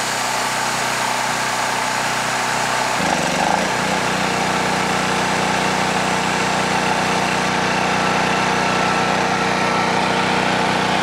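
Small gasoline engine driving an air compressor, running steadily. About three seconds in, its note changes and settles into an even, pulsing run. The compressor pump is taking on load and the air-vane governor is pulling the throttle open to speed the engine up against it.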